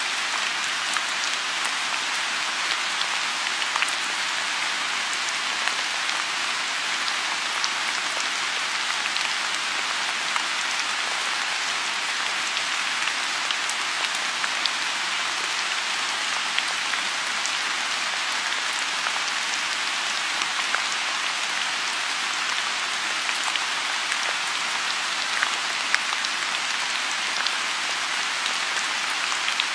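Steady rain falling on a lotus pond: an even hiss with many scattered sharp drop ticks.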